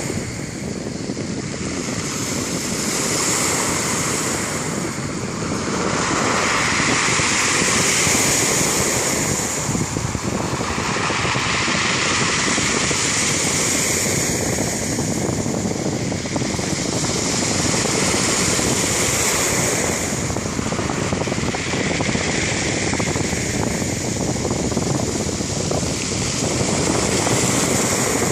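Black Sea surf washing onto the shore, a continuous rushing that swells and ebbs every five seconds or so as waves break and draw back.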